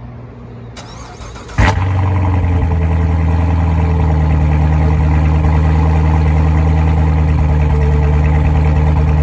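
2015 Chevrolet Corvette Z06's 6.2-litre supercharged LT4 V8 being started: a short crank, then the engine catches suddenly and loudly about a second and a half in and settles into a steady, loud idle.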